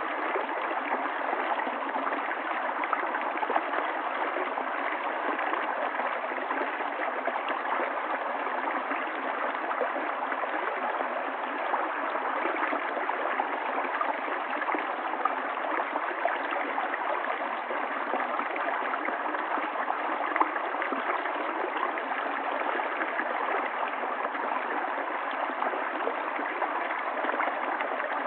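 River water flowing over stones, a steady rushing and gurgling.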